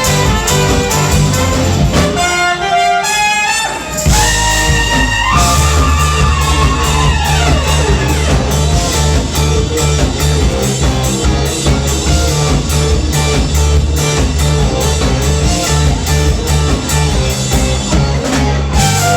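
Live band with a horn section playing loudly. About two seconds in, the bass and drums drop out, leaving only the upper parts for a couple of seconds. Then the full band comes back in with a heavy bass line, and a held high note slides down in pitch.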